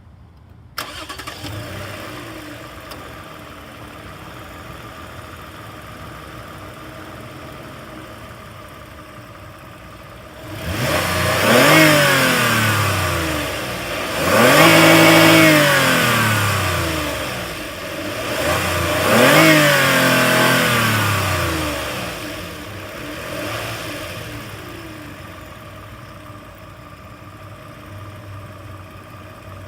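Toyota 2GR-FE 3.5-litre V6 of a 2007 Sienna minivan idling warm, then revved three times, each rev rising in pitch and falling back to idle. The owner says the engine has a vacuum leak somewhere.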